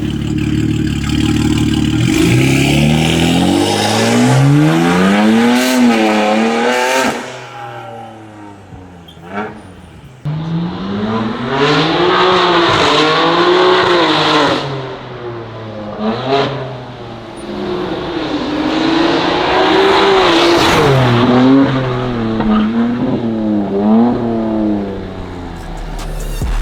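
BMW G87 M2's S58 twin-turbo straight-six, breathing through a de-catted downpipe, 102 mm single mid pipe and Track Edition valvetronic muffler, revved repeatedly in quick blips, its pitch climbing and falling over and over. A quieter lull comes about a third of the way in, and a couple of sharp cracks stand out in the quieter stretches.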